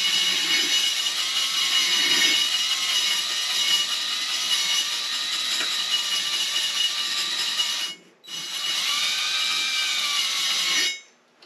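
Electric drill spinning a cylinder hone in a rusted Honda CB450 engine, steadily with a whine. It stops briefly about eight seconds in, starts again and stops near the end. The run is working out the rust, and it sounds smoother.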